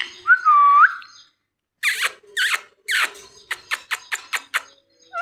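Ringneck parrot giving a short whistled note, then after a pause a run of about ten sharp, harsh calls that come shorter and quicker toward the end.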